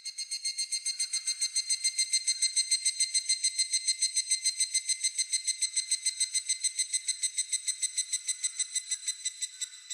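Higurashi (evening cicada) calling: a long run of shrill, rapidly repeated pulses, several a second, swelling over the first couple of seconds and slowly fading toward the end.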